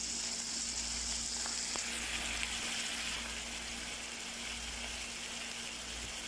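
Sliced bitter melon and chili sambal sizzling steadily in a hot wok. The hiss shifts lower about two seconds in.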